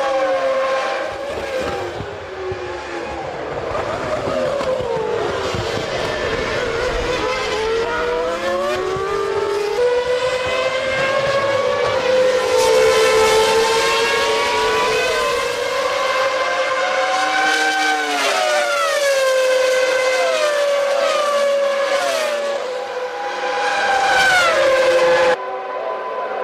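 1997 Formula One race cars' high-revving engines, several at once, their pitch climbing and dropping steeply again and again through gear changes as they pass. The sound changes abruptly near the end.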